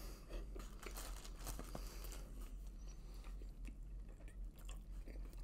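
A person chewing a mouthful of pepperoni pizza, with many small sharp mouth clicks.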